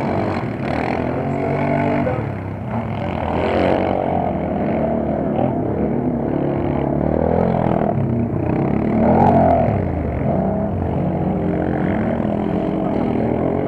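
Several racing quad bikes' engines running together, their notes rising and falling as they rev and ease off through the mud course.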